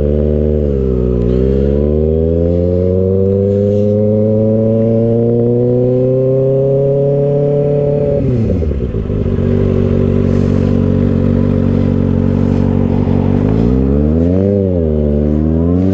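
Kawasaki ZX-6R's 636 cc inline-four with an aftermarket M4 exhaust under acceleration: the engine note rises for about seven seconds, drops sharply at an upshift about eight seconds in, holds steady, then dips and climbs again near the end.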